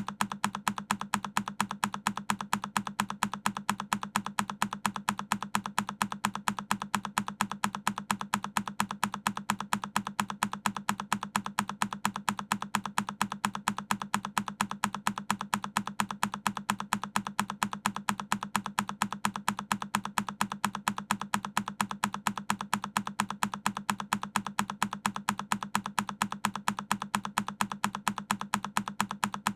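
A single key press on a Keychron K10 mechanical keyboard, looped: one sharp keystroke click repeated at an even pace, a few times a second.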